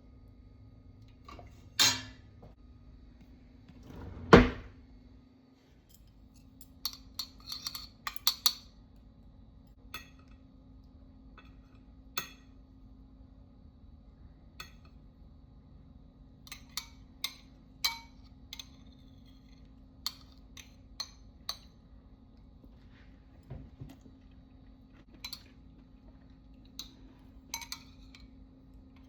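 Dishes and eating utensils clinking and tapping at irregular moments, with two heavier knocks about two and four and a half seconds in. A faint steady hum runs underneath.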